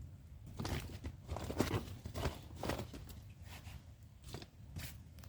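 Small wood fire being fed in a camping firebox stove: irregular snaps and knocks of kindling being handled and pushed in, over a low rumble.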